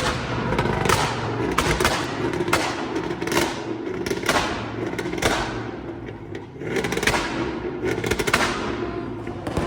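A car engine running hard under a string of loud sharp bangs, roughly one a second, typical of exhaust pops at a car meet.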